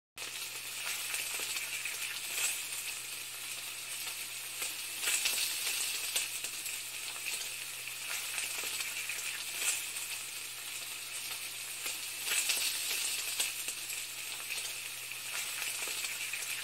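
Food sizzling in a hot pan: a steady crackling hiss that starts abruptly and swells every two to three seconds, over a low steady hum.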